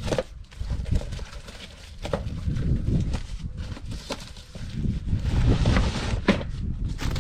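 A cardboard box is opened and the cart parts inside are handled, making rustling and scraping noises with irregular knocks and clicks.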